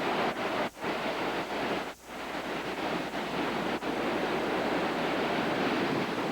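Heavy hurricane surf and storm wind, a steady dense rush with wind buffeting the microphone. The sound drops out briefly twice in the first two seconds.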